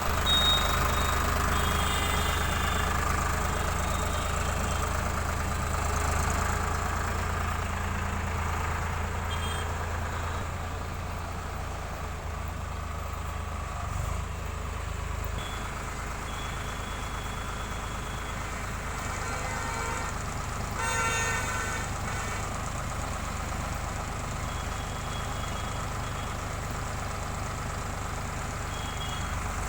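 Eicher 557 tractor's diesel engine running steadily, working a loader-backhoe, with faint high whining tones coming and going. About two-thirds of the way through a brief, louder pitched sound rises over the engine.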